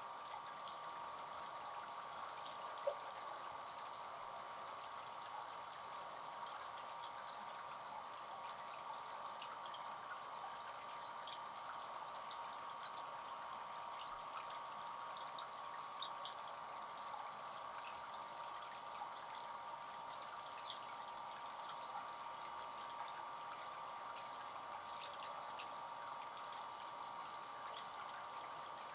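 Water trickling steadily from a fountain bird bath, with scattered drips and a few sharper splashes.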